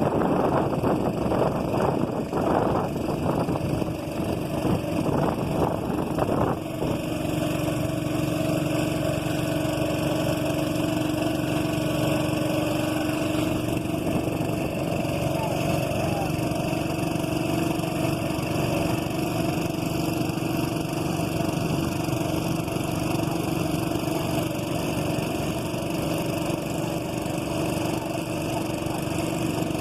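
Small boat engine running steadily, with a rougher, pulsing noise over it for the first six seconds or so, after which the even engine hum holds alone.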